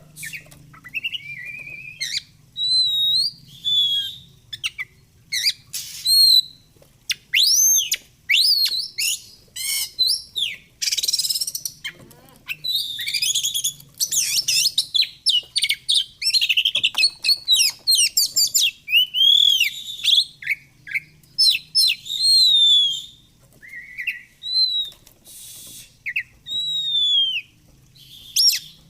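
Oriental magpie-robin (kacer) singing a rapid, varied song of whistled notes, rising and falling slurs and harsh scratchy phrases, broken by short pauses.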